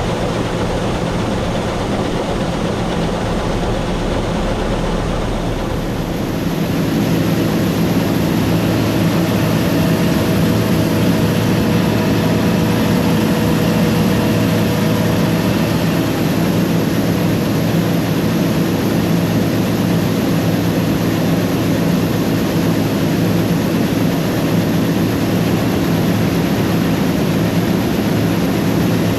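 Combine harvester running steadily under load, a continuous heavy engine and machinery drone that grows louder and fuller about six seconds in.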